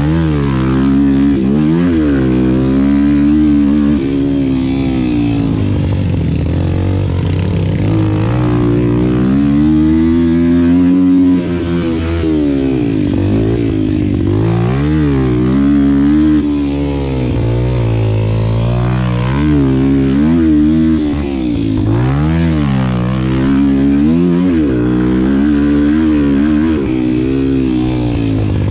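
Four-stroke Yamaha pit bike engine being ridden on a dirt track, revving up and dropping back over and over, its pitch rising and falling every second or two.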